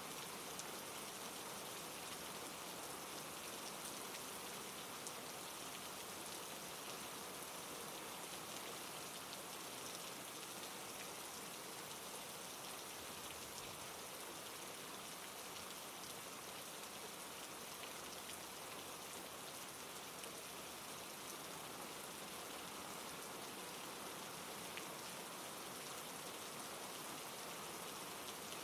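Steady rain falling, an even hiss sprinkled with tiny drop ticks that holds unchanged throughout.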